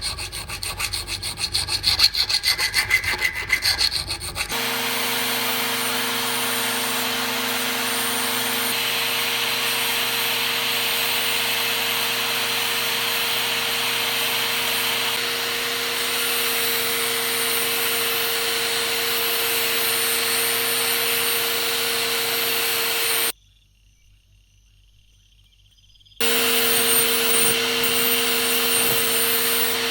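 Rapid back-and-forth rubbing strokes for the first few seconds, then a power tool running steadily with a constant hum. The tool sound breaks off into a few seconds of near silence a little after twenty seconds and then resumes.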